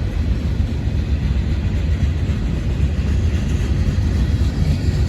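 Freight cars of a long Norfolk Southern train rolling past, a steady low rumble of wheels on rail.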